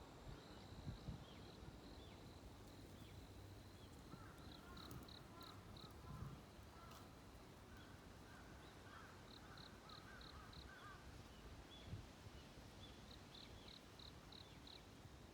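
Faint dawn birdsong: a bird gives a quick run of four or five short high notes, three times over, among scattered single chirps and soft lower chattering.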